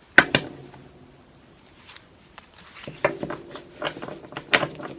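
Light clicks and soft knocks of small objects being handled: one sharp click just after the start, then several more near the end.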